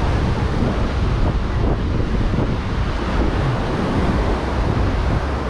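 Wind buffeting the microphone as a steady, fluttering low rumble, over the constant wash of ocean surf.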